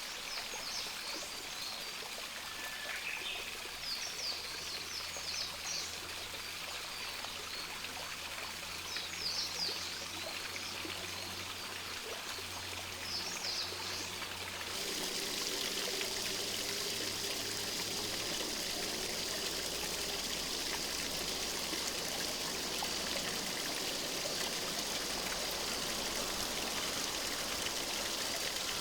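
Stream water running steadily, with short bursts of high, quick bird calls every few seconds in the first half. About halfway through the water turns abruptly louder and hissier, as if a different stretch of stream is being recorded.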